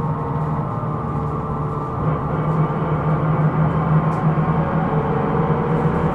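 Running sound inside a Hino Rainbow II (SDG-KR290J1) bus: the engine and drivetrain under way, with a steady humming whine of several held tones over the rumble, the abnormal noise this bus is recorded for. It grows a little louder about two seconds in.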